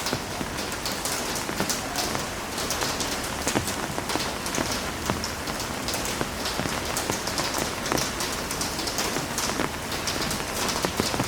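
Heavy rain falling steadily, a dense hiss with many close, sharp drop impacts throughout.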